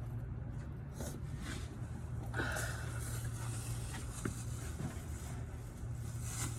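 Motor oil glugging out of a plastic jug into the engine's oil filler as the new oil is added, with a few light clicks and knocks of the jug against the filler neck.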